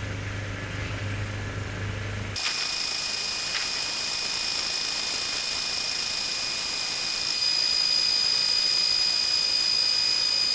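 A low, steady motor hum that cuts off abruptly after about two seconds. A louder, steady machine whirr with a high whine replaces it and stops abruptly at the end.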